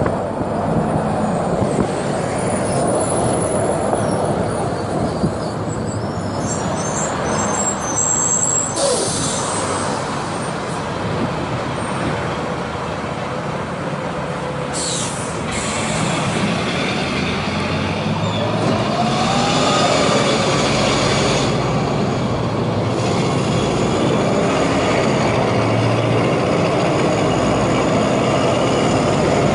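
Agrale MT 17.0 LE bus's four-cylinder diesel engine running under way, its pitch rising and falling with speed. There are short hisses of released air about nine and fifteen seconds in, typical of the air brakes.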